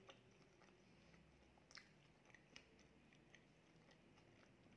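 Faint chewing of a mouthful of pizza, with a few sharp, short crunches of crust, the loudest a little under two seconds in.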